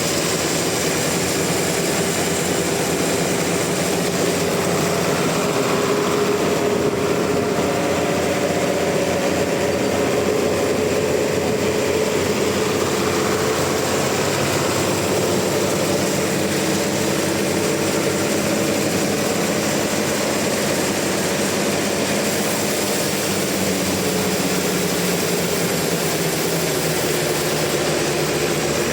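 Sawmill saw and its motor running steadily, a constant mechanical drone with a steady hum, most likely sawing through a large trembesi (rain tree) trunk.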